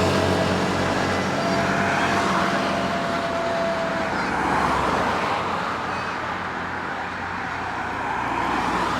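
Trucks driving past as they leave a truck meet: engine and tyre noise swelling and fading as each one goes by.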